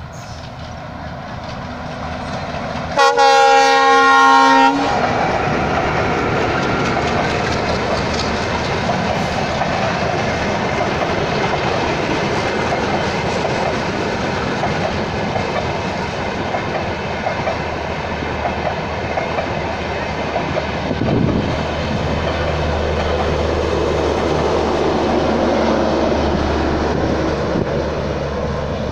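Express passenger train passing at speed. The locomotive gives one loud horn blast of nearly two seconds about three seconds in, followed by the steady rumble and clickety-clack of the coaches rolling by.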